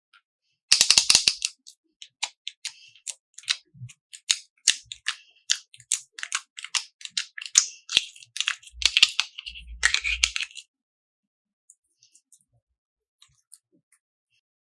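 Slime being squeezed and worked by hand, giving rapid, irregular clicking and crackling pops for about ten seconds before it stops.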